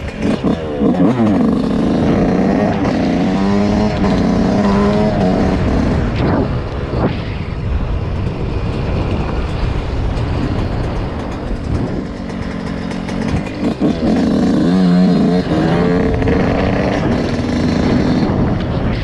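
Dirt bike engine revving, its pitch rising and falling in two spells, about a second in and again near the end, with steady engine noise between.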